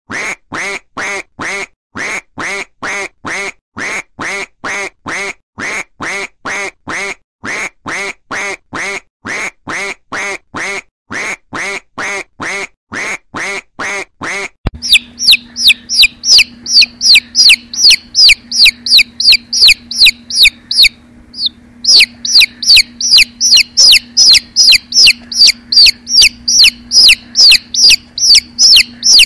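Duck quacking over and over, about two quacks a second. About halfway through it switches suddenly to baby chicks peeping: a rapid run of high-pitched cheeps over a faint low hum, with a brief pause about three-quarters of the way in.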